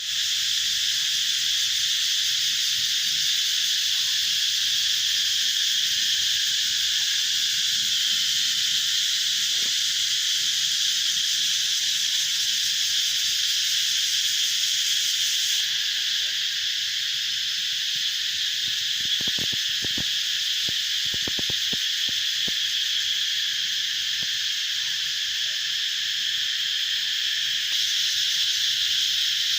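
A loud chorus of cicadas making a steady, shrill buzz. The highest part of the buzz drops away about halfway through and returns near the end.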